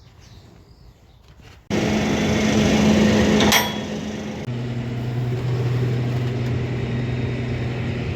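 Tractor engine running steadily, cutting in abruptly about two seconds in. A brief sharp sound comes about a second later, and then the engine's note settles lower.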